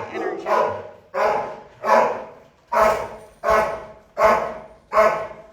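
Young boxer–Plott hound mix barking over and over in his kennel, about eight barks at roughly one every 0.7 seconds, each trailing off in an echo. The dog is going hoarse from barking so much.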